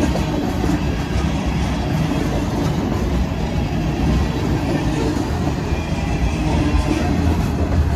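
CSX freight train's cars rolling past on the rails: a steady, loud rumble and rattle of wheels on track.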